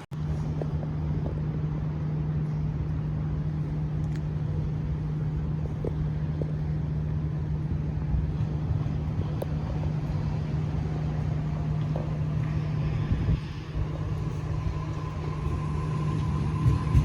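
Electric train at the station, a steady low hum over a low rumble. Near the end a faint higher steady tone joins in.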